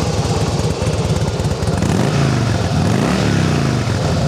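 A 2006 Harley-Davidson Softail Deluxe's fuel-injected 88-cubic-inch Twin Cam V-twin idles with a clean, even beat. About two seconds in the throttle is blipped once: the engine revs up and drops back to idle.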